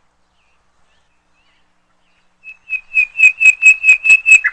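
A bird calling in a rapid series of about ten short, high notes, all at the same pitch, about five a second and growing louder. It starts a little past halfway, after a near-silent first half.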